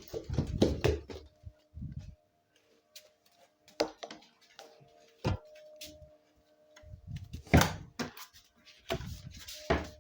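Scattered thumps and rustling with a few sharp clicks or knocks, the loudest knock at about three-quarters of the way through, over faint steady tones.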